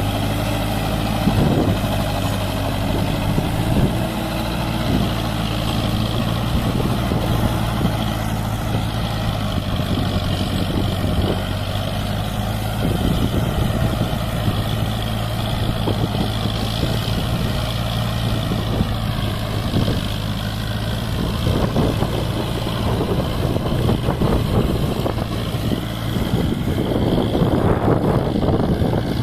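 Sonalika MM-45 tractor's diesel engine running steadily under load while working a rotavator. The sound grows rougher and noisier over the last several seconds.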